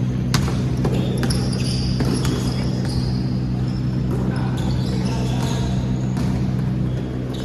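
Sounds of a ball game on a court: scattered sharp knocks of a bouncing ball and short high squeaks, over a strong steady low hum.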